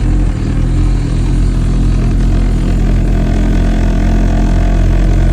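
Honda K-series four-cylinder engine in a K-swapped Toyota MR2 running at a steady, even speed as the car drives slowly, with a deep, loud drone.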